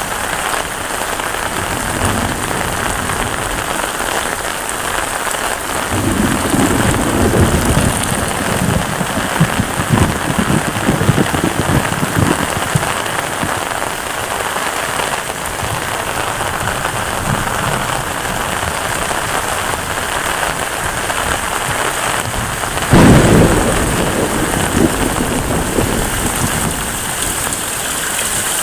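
Heavy rain falling steadily, with thunder. A long low rumble comes in about six seconds in; later a sudden, louder clap rumbles away over a few seconds.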